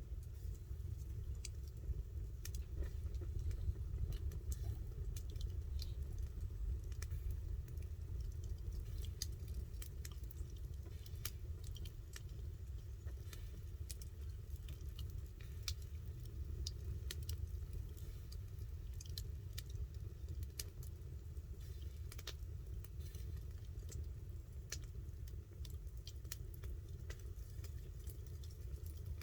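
Campfire crackling: irregular sharp pops and snaps from burning wood over a steady low rumble.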